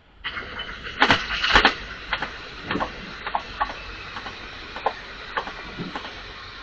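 A train passing with a steady rushing noise and a series of sharp clicks and knocks, the loudest just after a second in, then more spaced about half a second apart.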